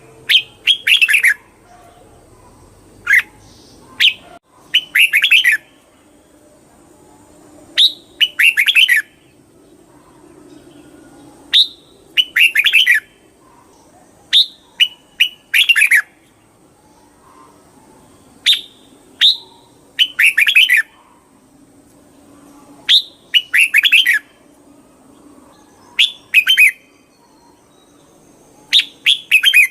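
Red-whiskered bulbul singing: short, quick phrases of rising and falling notes, each about a second long, repeated every two to four seconds.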